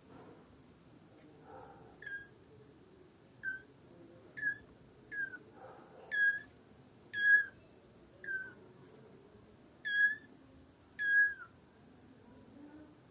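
A cat meowing in a run of about ten short, high-pitched calls, roughly one a second, each starting with a quick drop in pitch and then holding briefly.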